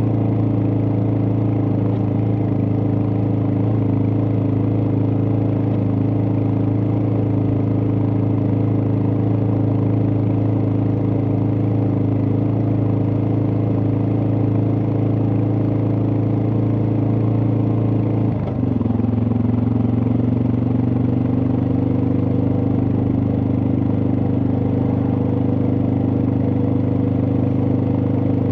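Suzuki DR650's single-cylinder four-stroke engine running steadily under way. About 18 seconds in, the sound dips briefly and settles at a lower pitch, as on an upshift.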